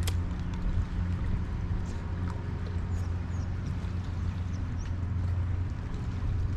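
Water lapping and sloshing against a small plastic kayak's hull, under a steady low rumble of wind on the action-camera microphone.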